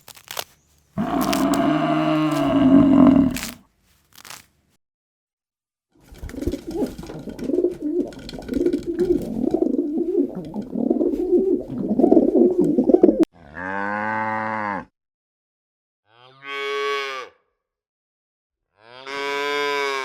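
A series of separate farm-animal calls, with cattle mooing. A long, rough, wavering call runs through the middle, and three short calls follow near the end.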